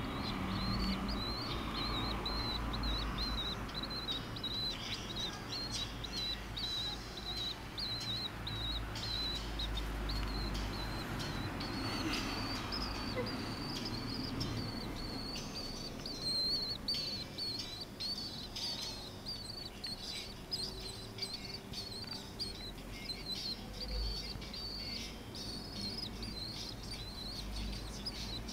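Nestling bird cheeping, a thin, high, wavering call that goes on almost without a break.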